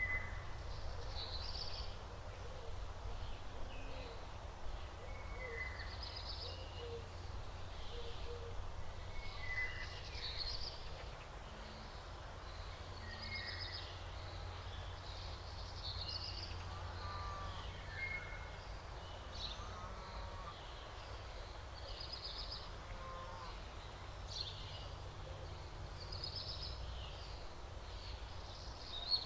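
Small birds chirping, with short calls every second or two, over a steady low rumble of outdoor ambience.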